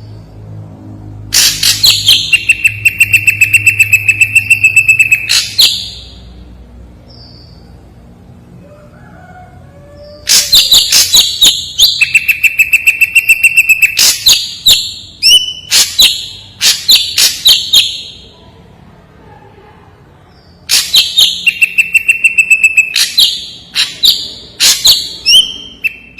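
Ashy drongo singing in three loud bouts of rapid, sharp notes, each bout carrying a long held high tone, with pauses of a few seconds between bouts.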